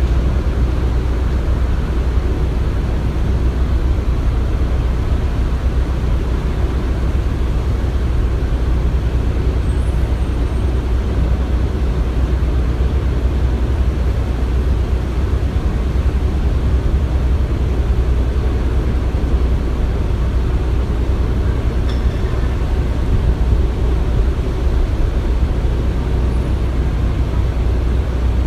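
Construction-site ambience: a steady low rumble of machinery running, with no distinct knocks or bangs.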